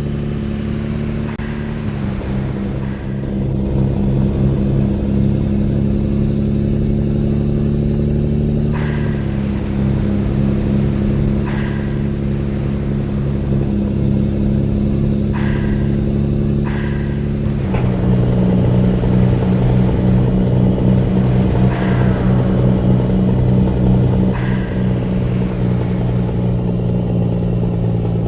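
A truck engine running steadily, its pitch stepping up or down a few times as the revs change, with several sharp clanks over it.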